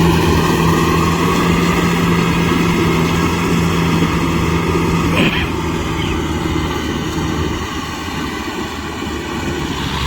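Kubota M6040SU tractor's diesel engine running steadily while working a rotavator in mud. A little past halfway the steady engine note shifts, with a brief sharp noise, and the sound then eases slightly.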